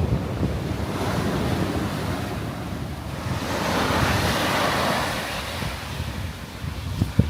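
North Sea waves breaking on a shingle beach, one wash swelling and fading about halfway through, with strong wind buffeting the microphone throughout. A brief thump near the end.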